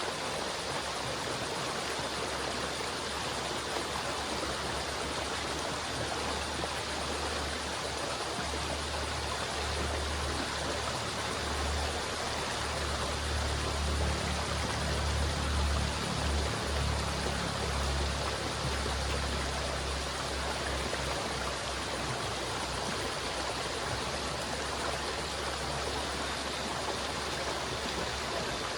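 River water flowing in a steady rush, with a deeper low rumble that swells for several seconds about midway and then settles.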